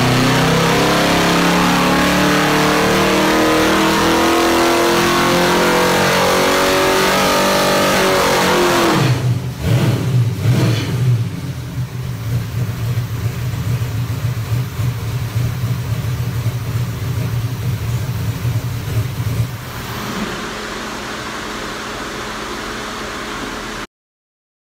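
572 big-block Chevy stroker V8 making a dyno pull, loud with its revs climbing steadily for about eight seconds, then the throttle closes and it falls back to idle. The idle goes quieter about twenty seconds in, and the sound cuts off just before the end.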